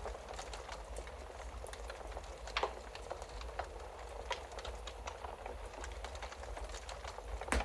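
Wood fire crackling in a fireplace: scattered small pops and snaps over a low steady rumble, with two louder pops, one about two and a half seconds in and one near the end.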